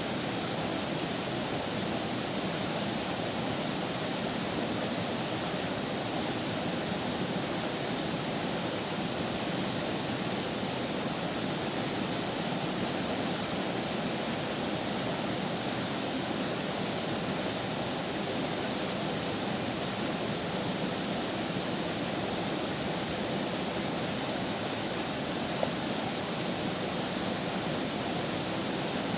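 River water flowing steadily, a constant even rush with no change or break.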